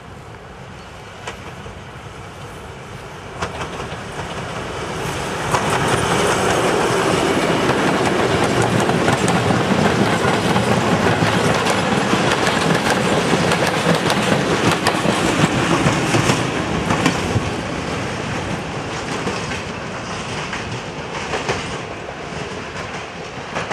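A PKP SM48 diesel-electric locomotive passes at close range hauling a freight train of open wagons. The sound grows as the engine comes close and stays loud for about ten seconds in the middle. The wagons' wheels clack over the rail joints, and the sound fades over the last few seconds as the train moves away.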